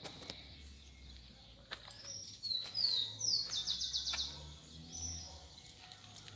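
A bird singing: a few quick downward-sliding chirps about two seconds in, then a rapid trill of repeated notes, and one more short phrase near the end.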